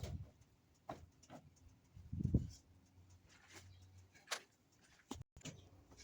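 Scattered light knocks and taps, with one dull thud about two seconds in.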